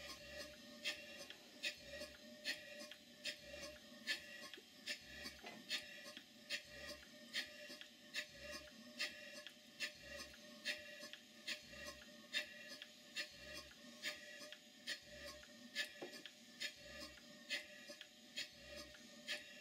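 Hayward Tyler duplex (twin-cylinder) boiler feed water pump running steadily: an even rhythm of sharp clicks, a couple a second, over a low beat a little under once a second from the strokes.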